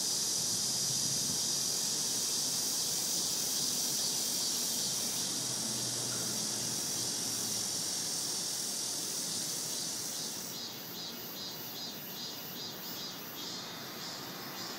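Cicadas singing in a steady, high-pitched drone. About ten seconds in, the drone gives way to a pulsing call, repeated a few times a second.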